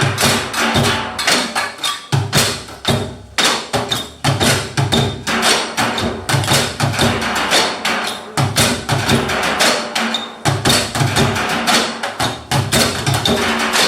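Live percussion-led music: rapid, dense strikes in a steady rhythm over a few sustained tones.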